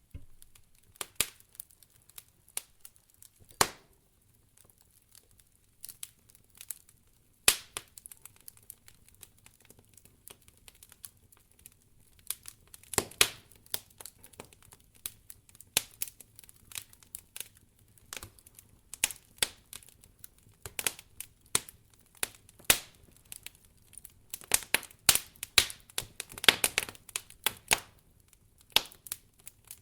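Wood fire crackling in a fireplace: irregular sharp pops and snaps, sparse at first and coming thicker and faster in the second half.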